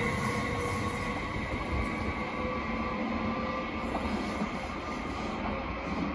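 Train rolling along the track, its rumble getting slowly quieter, with a few faint steady tones above the noise.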